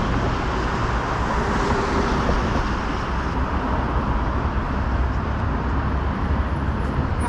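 Steady city street traffic: a continuous hum of road vehicles with a low rumble underneath.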